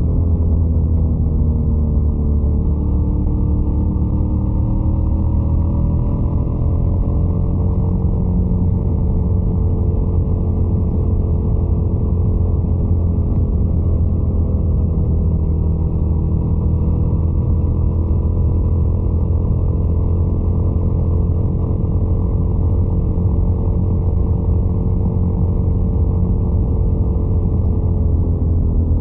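Ducati Scrambler 800's air-cooled L-twin engine running continuously. Its pitch falls in the first few seconds, climbs again, holds, and drops once more near the end as the revs change.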